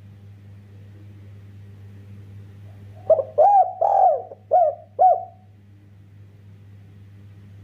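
Spotted dove (derkuku) cooing: one phrase of about five short, arching coos, starting about three seconds in, over a steady low hum.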